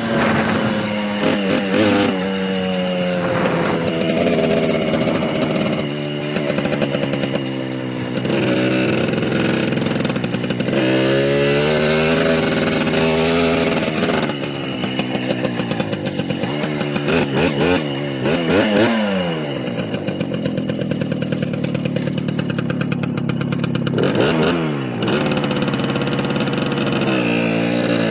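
Small motorcycle engines running under way, the pitch climbing and falling again and again as the throttle is opened and closed and gears change.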